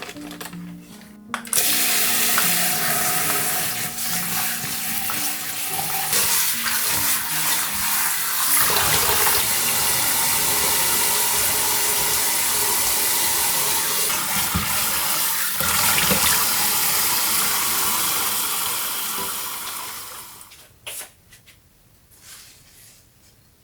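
Kitchen tap running into a sink, a steady rush of water that is shut off near the end, followed by a few light knocks.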